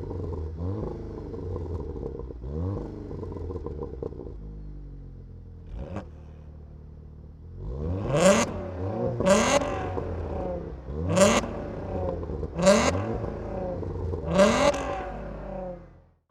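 Volkswagen Golf's engine and exhaust revved in throttle blips: several short revs, a few seconds of steadier running, then five sharper, louder blips a second or two apart. The sound cuts off suddenly near the end.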